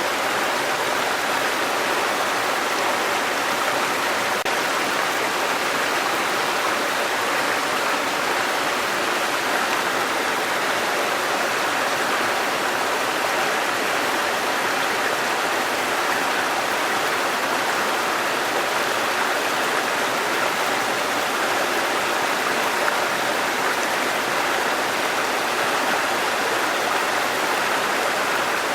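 Waterfall and rushing stream water, a steady even noise with no pauses or changes.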